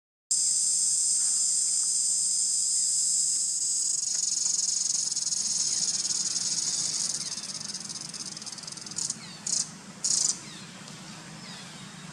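Insects calling in a steady, loud, high-pitched drone that fades over the second half, followed by three short bursts near the end.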